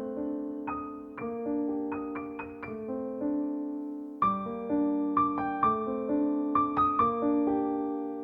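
Background piano music: a slow, gentle melody of single struck notes over held chords, the notes coming quicker after about four seconds.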